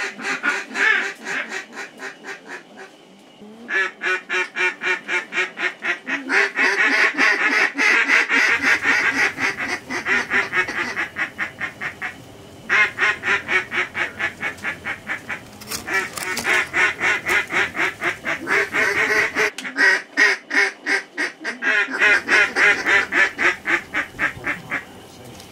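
Mallard-style duck calls blown in fast, rhythmic quacking runs of about seven notes a second, several bouts overlapping, to draw ducks in during a hunt.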